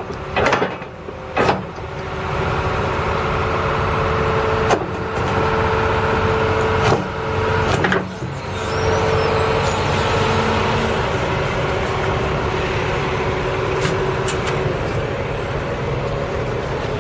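John Deere 250G excavator working, its diesel engine and hydraulics giving a steady drone with a held whine, and a few sharp knocks in the first half.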